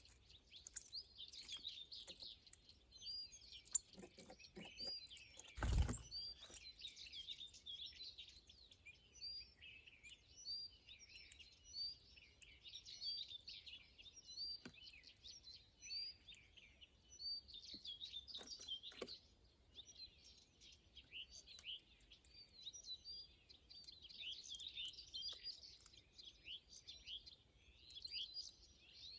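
Small birds chirping continuously in many short, overlapping calls, as a group at a feeding spot. A single thump about six seconds in is the loudest sound.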